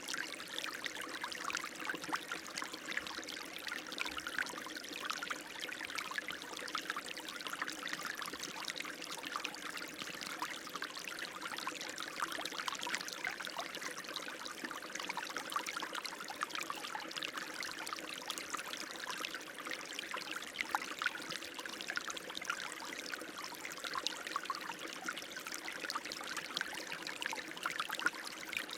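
Running water flowing and trickling steadily, a constant wash of small splashes and gurgles.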